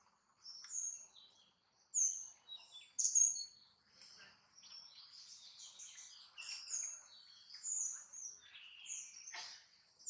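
Birds chirping: many short, high-pitched calls and trills, coming one after another.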